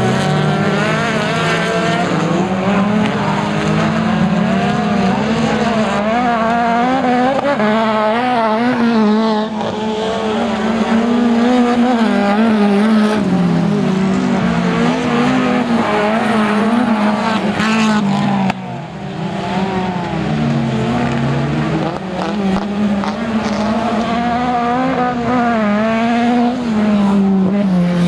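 Autocross race car engine driven hard, its revs rising and falling again and again through gear changes and corners, with a sudden brief drop in level about two-thirds of the way through.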